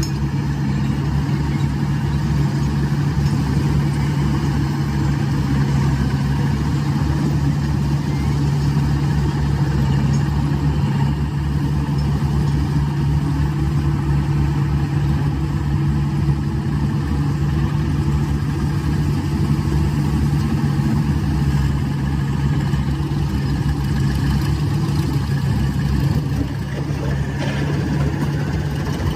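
Heavy diesel engine of earthmoving or loading machinery running steadily at an even speed, dipping slightly near the end.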